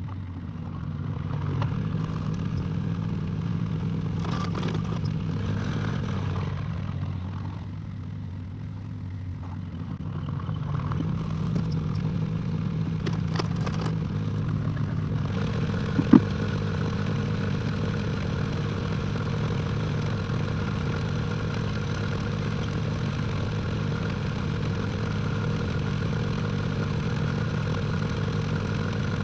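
Excavator diesel engine running steadily, picking up load about a second in and again around ten seconds, with a lull between. A few clanks and scrapes, a sharp click about sixteen seconds in, and a steady higher whine from about halfway.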